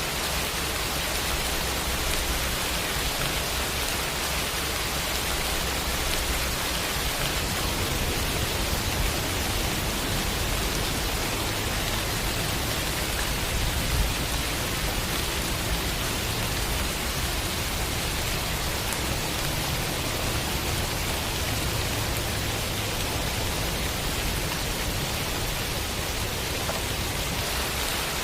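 Steady, even rain sound effect: a constant hiss of falling rain with a low rumble underneath.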